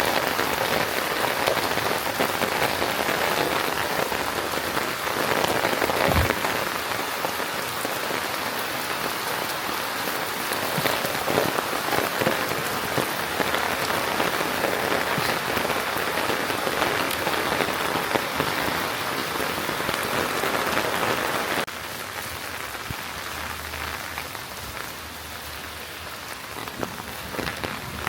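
Steady rain falling and pattering on surfaces, with fine drop ticks throughout. A single low thump comes about six seconds in, and the rain turns noticeably quieter about 22 seconds in.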